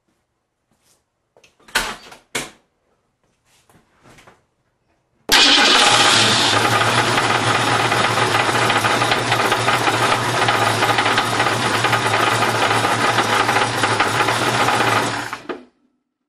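1968 Ford Mustang Fastback's engine starting suddenly about five seconds in and running steadily, then stopping near the end. It carries the motor trouble that the owner fears is bad. A few short clicks or knocks come before it starts.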